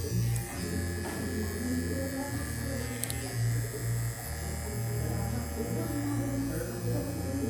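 Babyliss Pro cordless hair clipper buzzing steadily as it runs, with music playing underneath.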